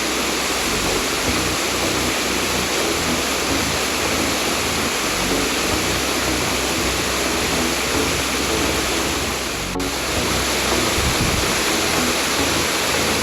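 Waterfall rushing, a loud steady wash of falling water, dipping briefly about ten seconds in.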